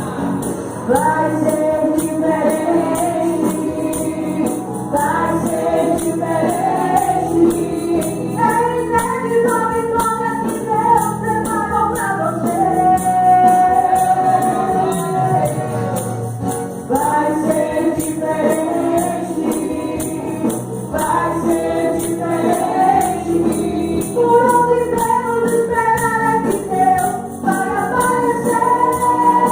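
Group singing of a Pentecostal gospel song in Portuguese, with a tambourine shaking a steady beat under the voices.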